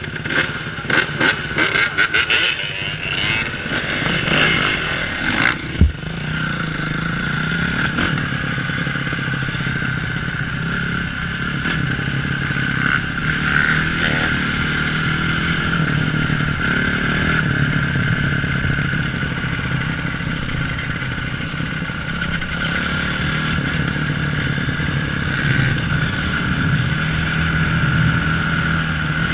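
Dirt bike engine running, with clattering knocks in the first six seconds that end in one sharp bang about six seconds in, then a steady engine note held for the rest of the time.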